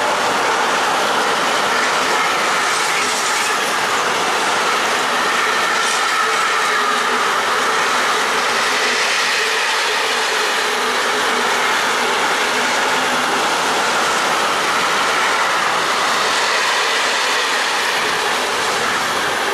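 Intermodal freight train of pocket wagons loaded with semi-trailers rolling past at speed: a steady clatter of wheels over the rail joints, with a faint high wheel whine running through it.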